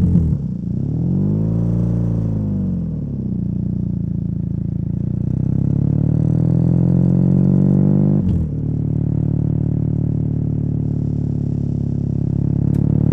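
BMW R nineT's boxer twin running through a Competition Werkes slip-on exhaust as the bike is ridden. The engine note rises and falls in the first few seconds, then climbs steadily under acceleration. About eight seconds in the pitch drops sharply, as at a gear change, and it pulls on again.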